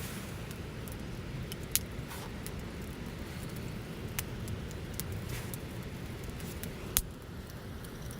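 Wood fire burning, with scattered crackles and pops over a steady low rush; two sharp pops stand out, about two seconds in and about seven seconds in.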